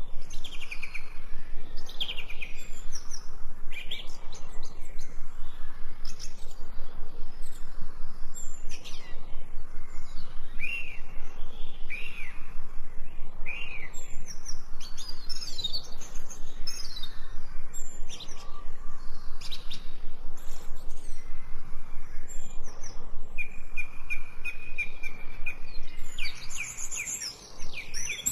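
Several songbirds chirping and singing in a dense, continuous run of short, quick notes, many of them sweeping downward in pitch. About three quarters of the way through, one bird gives a short run of even, repeated notes.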